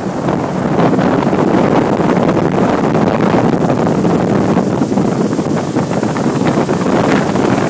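Boat motor running steadily as the boat moves along, with wind buffeting the microphone.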